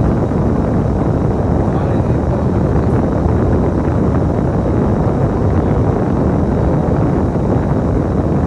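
Steady rumble of a bus under way, heard from on board, with wind buffeting the microphone.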